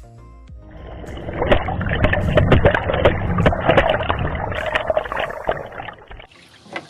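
Water sloshing and churning in a washing machine tub as the machine agitates, with frequent sharp knocks. It cuts off abruptly about six seconds in.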